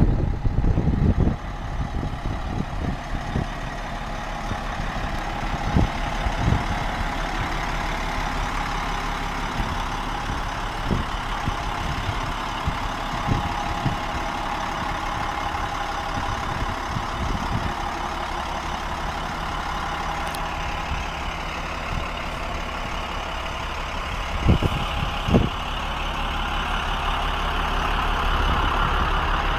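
Car carrier truck's engine running steadily, with a few short low thumps and a slight rise near the end.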